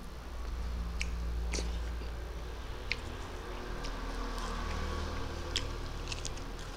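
Close-up mouth sounds of a person eating rice and small fried fish by hand: chewing with scattered wet clicks and smacks, over a steady low hum.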